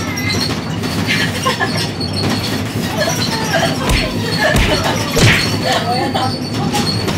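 Seohae Geumbit passenger train running on the rails: a steady rumble with rattles and clicks from a carriage that shakes hard, and three heavy low thumps about four to five seconds in.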